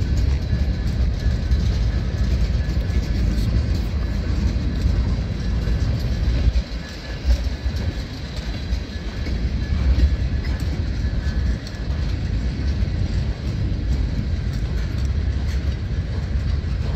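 Freight cars of a passing mixed freight train, tank cars and boxcars, rolling by: a steady low rumble of steel wheels on the rails, with faint clicking and clatter over the rail joints.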